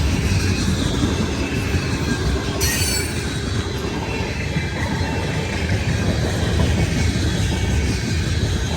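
Freight train rolling past: a steady rumble of wheels on rail, with squealing wheels and a brief high hiss about two and a half seconds in.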